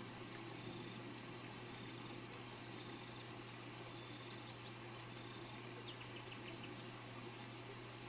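Steady hiss of falling rain with a low constant hum beneath it, and a small bird giving a quick run of short high chirps about six seconds in.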